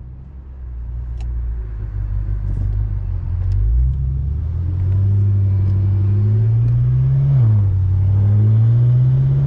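BMW F10 M5's twin-turbo V8 with an aftermarket X-pipe exhaust, heard from inside the cabin while accelerating. The engine note grows louder, then climbs steadily in pitch, falls at a gear change about seven seconds in, and climbs again.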